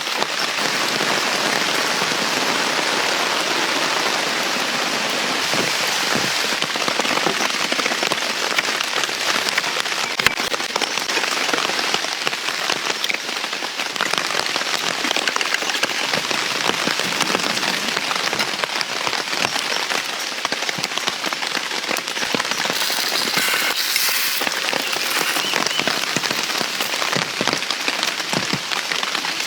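Heavy rain falling steadily, a dense even patter of drops, with one sharper tap about a third of the way through.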